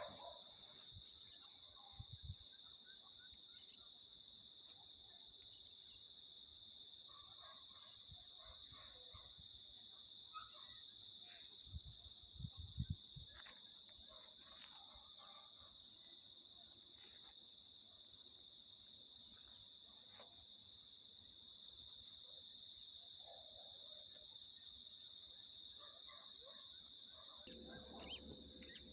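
Steady high-pitched insect chorus, an unbroken trill that holds the same pitch throughout. A few faint scattered sounds and soft low thumps sit underneath it.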